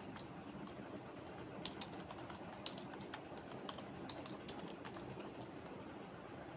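Typing on a computer keyboard: irregular key clicks in short runs, busiest through the middle, over a steady background hiss.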